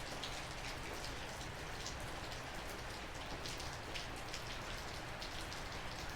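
Heavy rain falling steadily on surfaces, with scattered sharper taps of individual drops landing close by.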